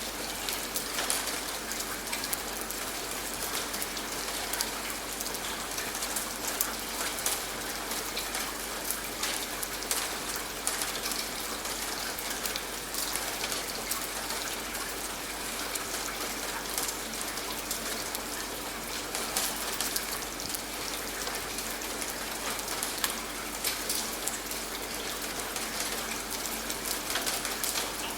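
Steady rain falling on a surface, with many close drops heard as short sharp ticks over an even hiss.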